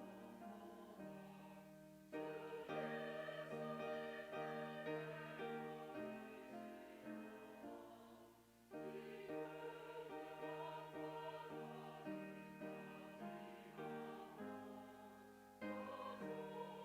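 Church choir singing a hymn with instrumental accompaniment, in sustained phrases with fresh entries about two seconds in, around the middle and near the end.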